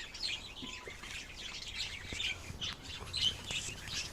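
Birds chirping: many short, scattered high chirps at a low level.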